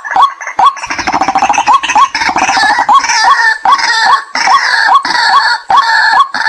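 White-breasted waterhen calling: a steady run of repeated hooked 'kwaak' notes about two a second, joined from about a second in until near the end by a louder, harsher chattering and croaking chorus.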